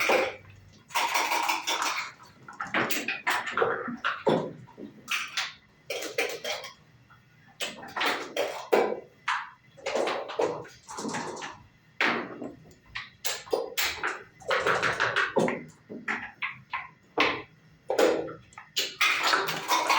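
Backgammon play: dice rattled in cups and tumbling onto the board, and checkers clacking as they are moved, in repeated bursts of clicks and rattles with short pauses between.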